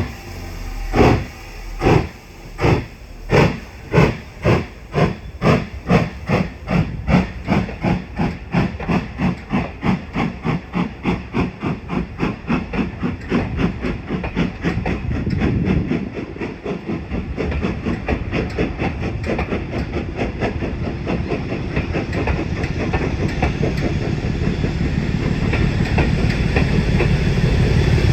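Steam locomotive pulling away, its exhaust beats about one a second at first and quickening steadily until they run together, with a low rumble growing louder near the end.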